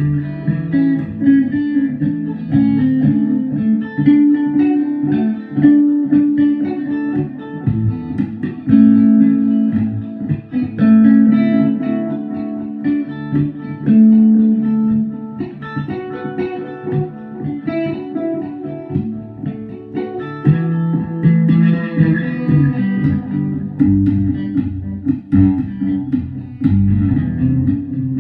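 Guitar music: a steady run of plucked notes over low bass notes.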